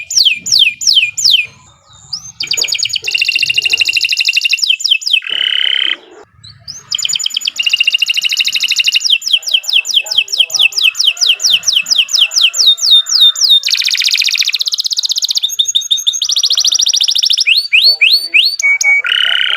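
Domestic canary singing a long, loud song made of rapid rolls of repeated notes: runs of falling chirps and buzzy trills, each at its own speed, with short breaks about two and six seconds in.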